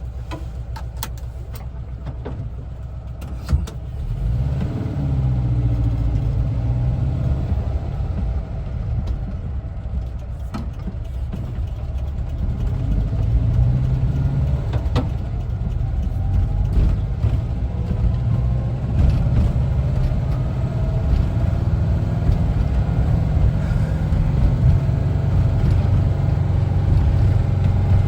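1974 VW Westfalia's air-cooled Type 4 flat-four engine running as the bus drives, with a sharp knock about three and a half seconds in. The engine then pulls harder, its pitch rising as the bus accelerates, twice, before settling into steadier cruising with road noise.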